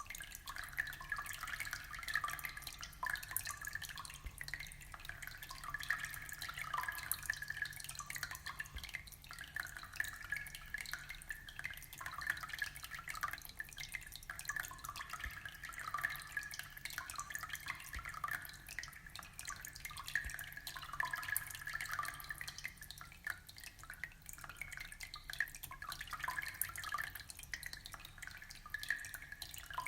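Fish-tank water trickling and bubbling steadily, a continuous patter of small drips and bubbles, over a faint low hum.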